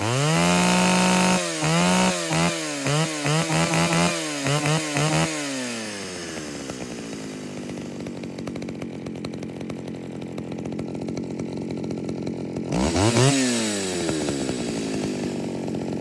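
Classic two-stroke chainsaw revved with about eight quick throttle blips, then the engine falls back to a steady idle; a little past the middle it is revved once more, briefly, and drops back to idle.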